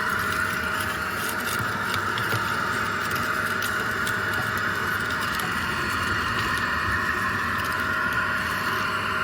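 Parkside ash vacuum cleaner running steadily, a constant whirring motor with a faint steady tone and a few faint ticks.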